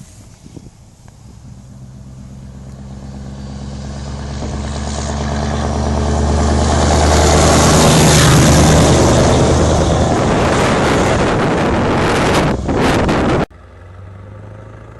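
Scania R500 truck's V8 diesel engine running at a steady pitch, growing louder over several seconds as it draws close and staying loud for a while. About 13 seconds in the sound drops suddenly to a much quieter engine hum.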